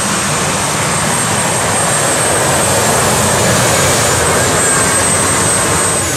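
A pulling tractor's twin Allison V12 aircraft engines running at full power. The sound is a loud, steady, thundering noise with a thin high whine over it, and it eases slightly near the end.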